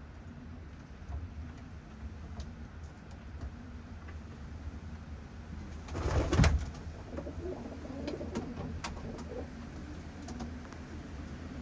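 Young racing pigeons cooing in their loft, with scattered small clicks and scratches. About halfway through comes one brief, loud rushing burst, the loudest sound here.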